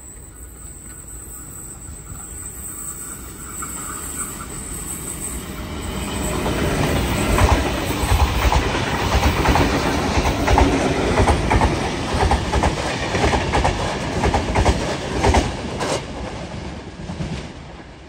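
Sydney Trains double-deck electric passenger train approaching and running past, its wheels clicking rapidly over rail joints with a heavy rumble. It grows louder from about six seconds in and drops away sharply near the end.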